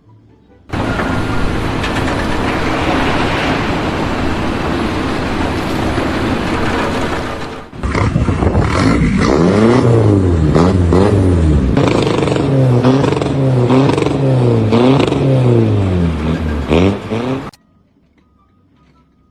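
Machinery noise for several seconds, then an engine revving up and down over and over, its pitch rising and falling about once a second. It cuts off suddenly near the end.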